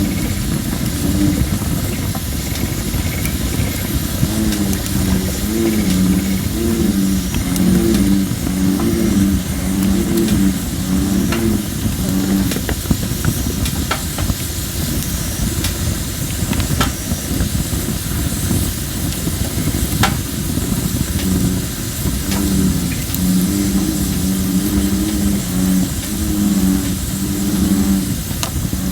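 Campfire of thin, not fully dried red robin (Photinia) logs hissing steadily as moisture steams out of the wood, with a few sharp crackles. Over it, bullfrogs call in two long runs of deep croaks at about one and a half a second, one a few seconds in and one near the end.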